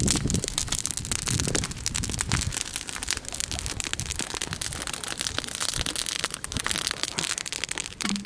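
Bonfire crackling and popping, many irregular sharp snaps. Wind gusts rumble on the microphone in the first couple of seconds.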